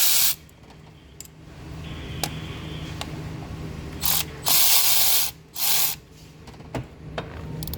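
Short blasts of compressed-air hiss from an air tool in a car workshop, with a few sharp ratchet clicks between them. The first blast stops about a third of a second in, and three more come around the middle, the longest under a second.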